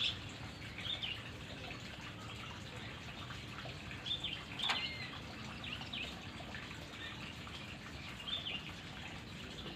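White-rumped shama giving short, high chirping calls, one every second or so, with a sharper click and note about halfway through, over a steady background hiss.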